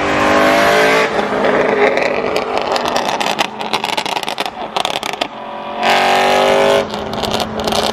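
BMW M3's S65 V8 revved hard twice through a loud aftermarket exhaust, at the start and again about six seconds in, with popping and crackling on the overrun between the revs.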